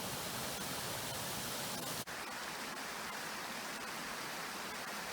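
Steady rushing of a stream's running water, cut off for an instant about two seconds in, then carrying on.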